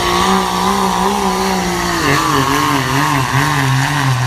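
A pulling truck's engine running hard at high revs. Its pitch wavers and drops a step about two seconds in.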